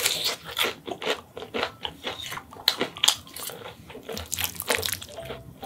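Close-up crunching and chewing of a bite of crispy breaded fried pork cutlet, with sharp crunches about two or three times a second.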